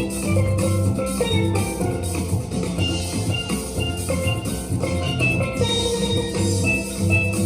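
Steel-band music: steel pans playing melody and chords over sustained low bass-pan notes, with a drum beat.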